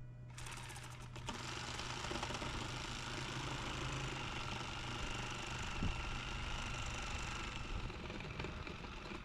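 A handheld power tool running steadily for about eight and a half seconds, starting with a rapid rattle.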